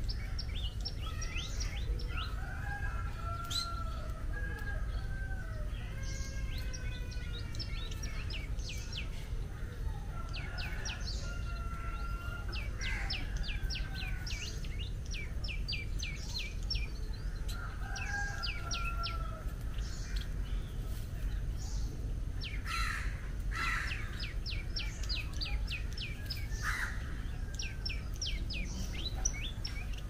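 Small birds chirping: rapid runs of short high notes, with lower wavering whistled phrases mixed in during the first half, over a steady low rumble.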